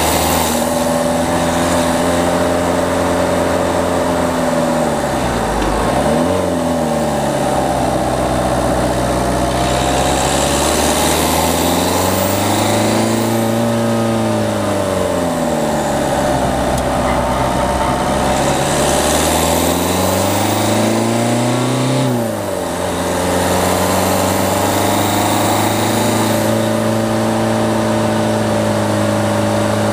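Diesel engine of a Peugeot 208 pulling on a mountain road. The engine note rises and falls several times, drops sharply once about two-thirds through, then runs steadily.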